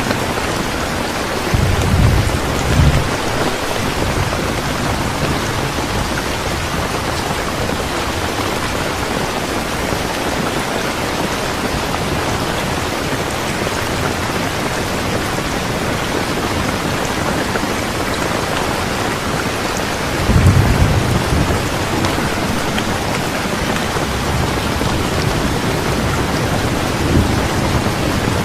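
Steady rain falling, with low rumbles of thunder about two seconds in and again about twenty seconds in.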